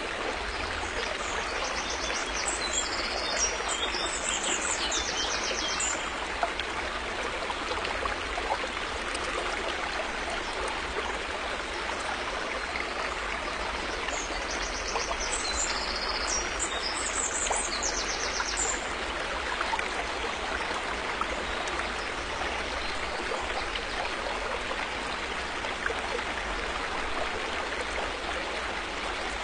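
Steady rushing of a flowing river. A bird sings a series of short high-pitched phrases above the water twice, from about two seconds in and again about fourteen seconds in.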